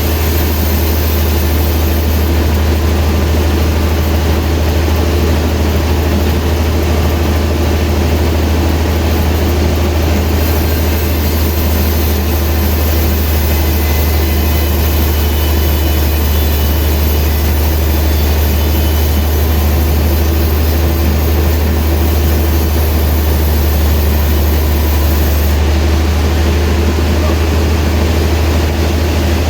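Sawmill machinery running steadily, a loud constant low hum with a noisy rush over it that does not change.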